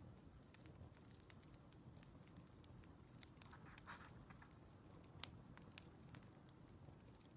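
Faint crackling of a wood fire: irregular small snaps and pops over a low rumble, the sharpest snap just after five seconds in.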